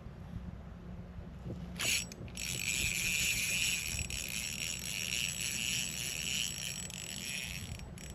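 Fishing reel being cranked, a steady mechanical whirring with a ratcheting quality. It starts with a sharp onset about two seconds in and runs for about six seconds while line is reeled in.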